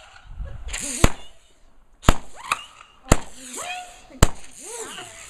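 Fireworks going off: four sharp bangs about a second apart, with whistles gliding up and down in pitch between them.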